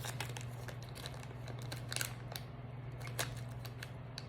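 Child-resistant plastic candy package being worked open, crinkling with irregular sharp crackles and clicks, a few louder ones, over a steady low hum.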